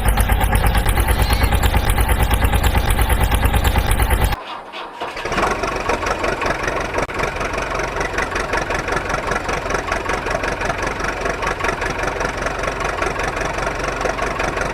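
Engine running with a fast, even chug. It breaks off suddenly about four seconds in, and a second, somewhat quieter engine sound picks up and runs on steadily.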